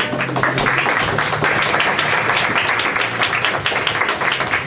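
Audience applauding: a dense, steady crowd clapping.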